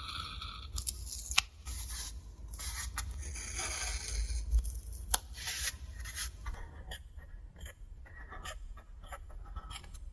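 Close-up handling sounds: rustling and scraping with several sharp clicks, growing fainter toward the end.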